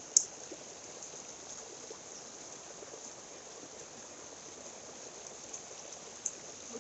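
Mountain stream running steadily, with a sharp click just after the start and a fainter click near the end.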